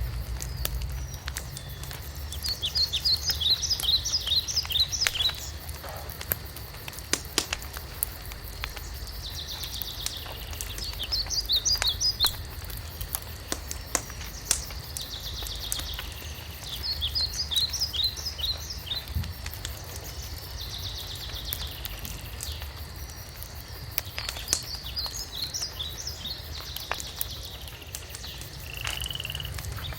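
Wood fire crackling with scattered sharp pops, under a low steady rumble, while a songbird repeats a short phrase of quick high notes every five or six seconds.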